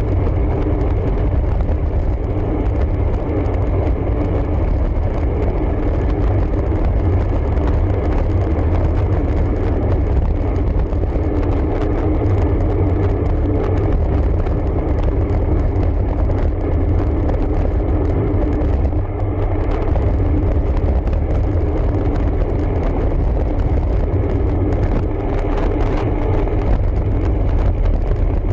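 Steady, loud wind buffeting on the microphone of a moving road bike, with tyre and road noise underneath.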